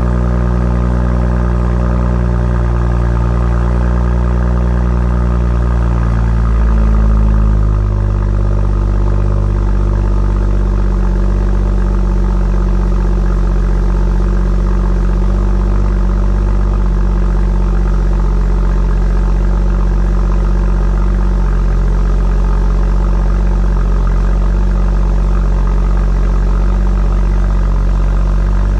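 BMW 340i xDrive's turbocharged straight-six idling through an aftermarket FI Exhaust cat-back system, a steady deep exhaust drone. It swells briefly about six to seven seconds in, then settles back to a slightly lower, even idle.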